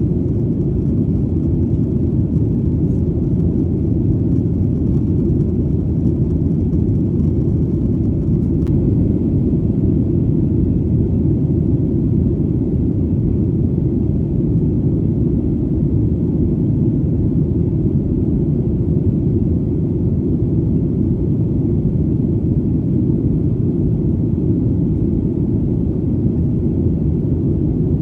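Airplane engine drone: a steady, deep rumble that does not change in pitch or loudness.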